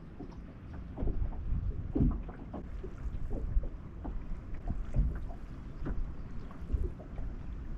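Wind buffeting the microphone with water lapping against a small boat's hull, and irregular light knocks.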